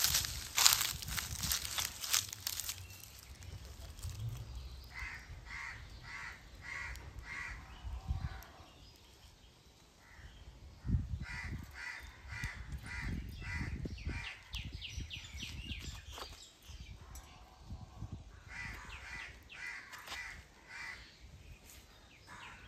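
A bird calling in three runs of short repeated notes, about two a second. In the first two seconds there is a cluster of sharp crackles, the loudest sound, as of dry leaf litter being disturbed.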